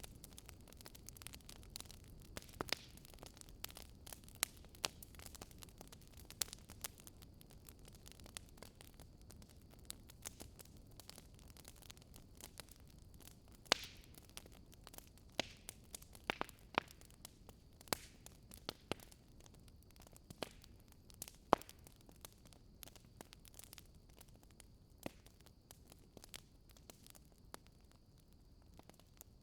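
Fire crackling: irregular sharp pops and snaps, a few louder ones, over a faint low steady rush.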